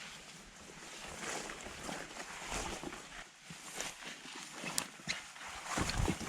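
Footsteps and rustling on a forest trail, with scattered light clicks and a couple of heavier thumps near the end.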